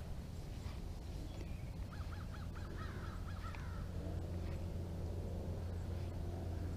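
A bird calling in a quick run of about eight short notes, two to three and a half seconds in, over a steady low hum of background noise.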